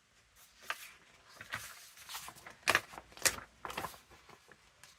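Sheets of printed paper being handled and shuffled on a work surface: soft rustles, with two sharper paper taps a little before halfway through.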